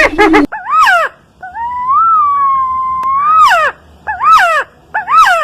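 A bird's clear, wailing whistled calls. First comes a short rising-and-falling note, then one long held note of about two seconds that ends in an upward-then-downward swoop, then two more short rising-and-falling notes.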